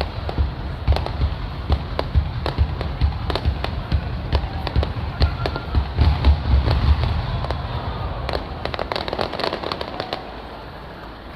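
Fireworks display: aerial shells bursting with deep booms and many sharp crackles, which die away about ten seconds in.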